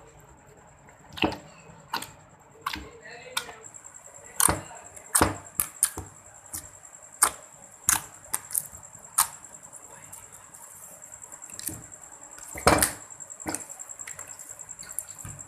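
Slime being squeezed and kneaded by hand, giving irregular sharp clicks and pops, the loudest about three-quarters of the way through.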